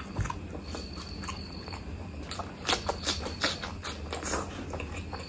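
Close-miked eating of mutton curry: wet chewing with irregular lip-smacks and clicks, bunched up about halfway through.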